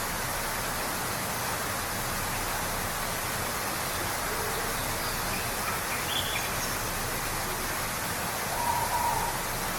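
Waterfall rushing in a steady, even roar of water, with a few faint short bird notes over it, the clearest near the end.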